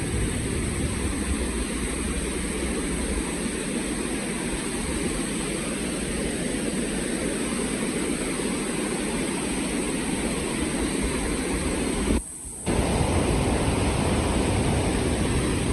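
Steady, loud roar of falling water from Niagara Falls, with a brief half-second dropout about twelve seconds in.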